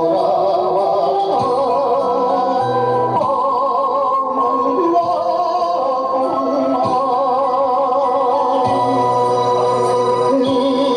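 Music with a voice singing long held notes with vibrato.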